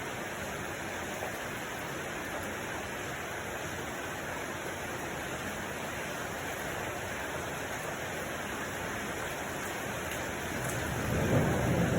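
Steady rain, with a low rumble of thunder swelling near the end.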